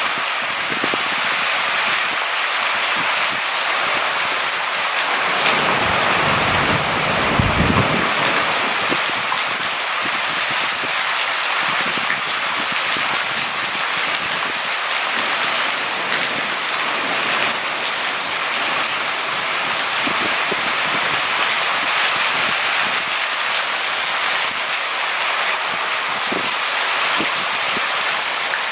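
Heavy rain falling steadily during a thunderstorm, a dense even hiss. A brief low rumble rises and fades about six to eight seconds in.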